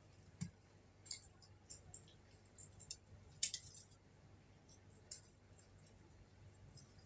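Eating noises: scattered faint, irregular clicks and crunches of food being chewed and handled, the loudest about three and a half seconds in.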